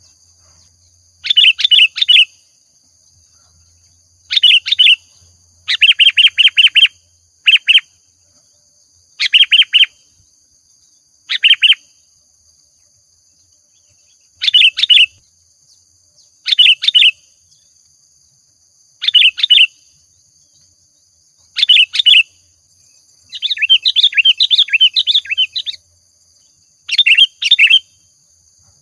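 Sooty-headed bulbul singing: short, quick chattering phrases repeated every two seconds or so, about a dozen in all, with one longer, more varied run of notes a little before the end.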